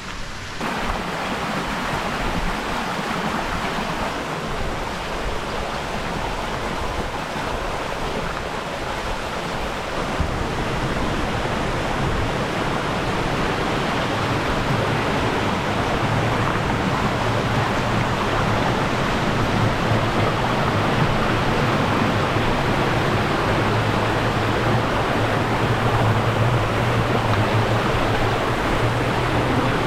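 Steady rush of flowing stream water, growing louder about ten seconds in.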